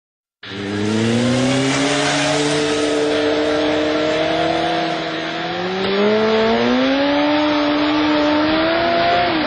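Motorcycle engine running hard, its pitch climbing slowly and unevenly over several seconds as it gains speed. The sound starts suddenly about half a second in and cuts off abruptly at the end.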